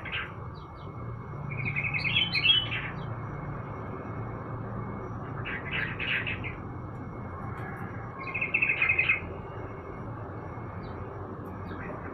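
Yellow-vented bulbul (trucukan) singing three short, bubbly phrases a few seconds apart. Under them runs a thin steady high tone and a low background rumble.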